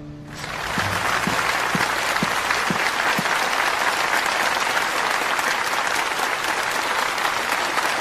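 Audience applauding steadily. It swells in about half a second in as a guitar music cue dies away.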